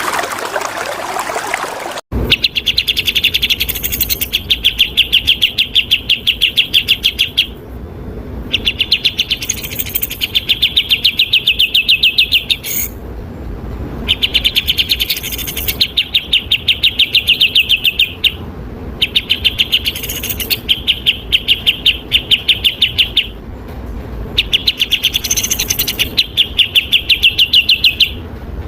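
Running water for about two seconds, cut off abruptly by a songbird's fast, even string of chirps. The chirps repeat in bouts of three to five seconds with short pauses between.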